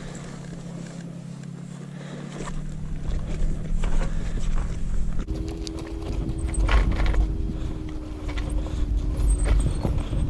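Motorcycle engine running steadily at low revs, then, about five seconds in, at higher revs with a heavy low rumble. Irregular clicks and knocks run throughout.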